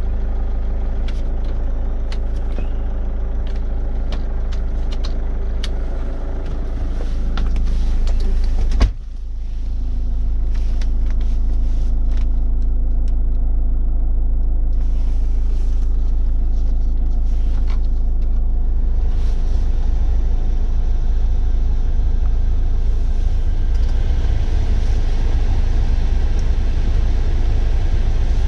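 GM Daewoo Winstorm SUV engine idling steadily, with one sharp knock about nine seconds in.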